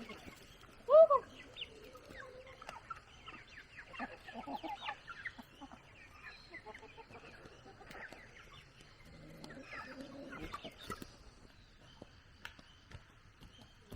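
Chickens clucking, with one loud arched call about a second in and scattered short clucks and chirps after it.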